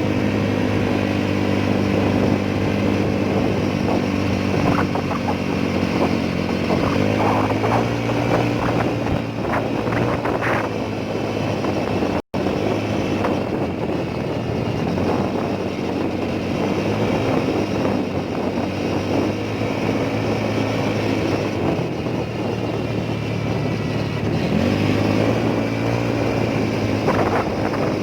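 Motorcycle engine running while riding, its pitch shifting a few times as speed changes, with road and wind noise. The sound cuts out for an instant about twelve seconds in.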